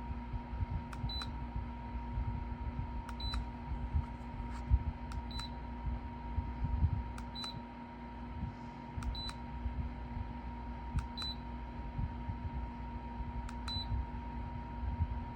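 A pair of sharp clicks with a short high beep, repeating evenly about every two seconds, over a steady electrical hum.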